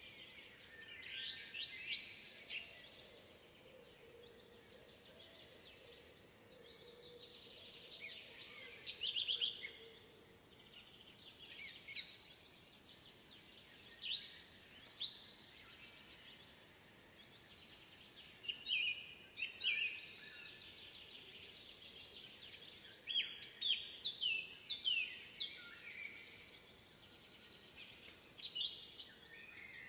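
Songbirds singing in a spring woodland: short phrases of quick chirps and trills every few seconds, over a faint steady background.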